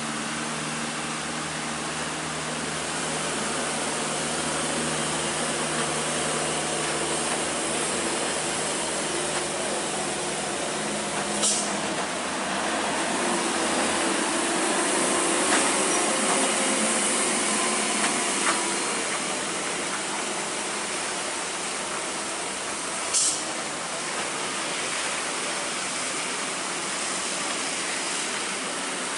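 Heavy rain hissing steadily, with diesel truck engines running under load on the climb; a Hino truck's engine grows louder through the middle as it comes up the bend close by. Two brief sharp clicks cut through, near the middle and about two-thirds in.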